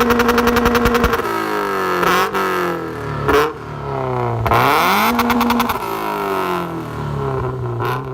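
Toyota GT86's 2.0-litre flat-four being revved through a Cobra Sport non-resonated cat-back exhaust with overpipe, sports cat and 4-1 unequal-length manifold. It is held at high revs for about a second and falls away, with a few quick blips. About halfway through it climbs again, holds briefly and drops back to a lower running note.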